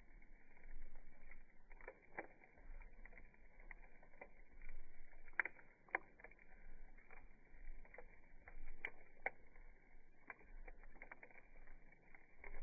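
Wood campfire crackling: irregular sharp pops and snaps, a dozen or so, over a faint, muffled rush.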